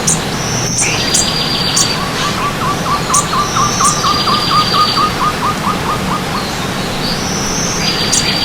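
Birds singing over the steady rush of stream water. A short high whistle and a rapid high trill repeat about every three to four seconds, and a run of short lower notes, about five a second, goes on for several seconds in the middle.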